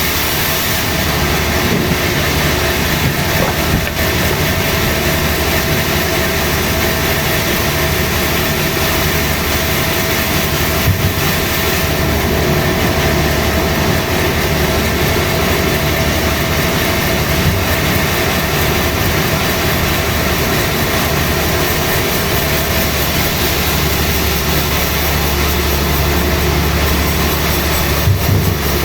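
Sawmill saw running steadily while cutting teak root wood, a continuous machine noise with a faint steady whine and a couple of sharp knocks, one about a third of the way in and one near the end.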